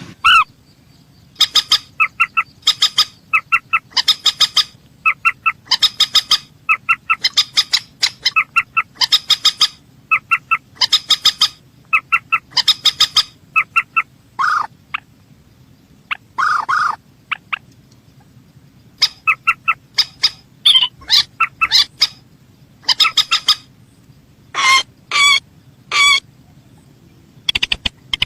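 Mandar sawah, a rail, calling in a lure recording: quick runs of short, sharp repeated notes, about one run a second, broken a few times by longer drawn single notes.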